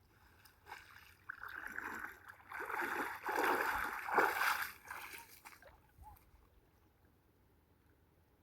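Water splashing and sloshing for about five seconds, building to a peak in the middle and then dying away.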